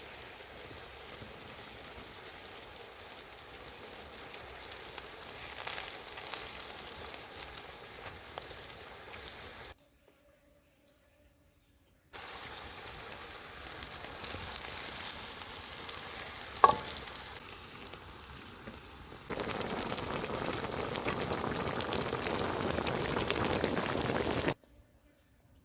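Food sizzling as it fries in a pan, an even hiss broken by edits into separate stretches with brief near-silent gaps. A single sharp click sounds about two-thirds of the way through.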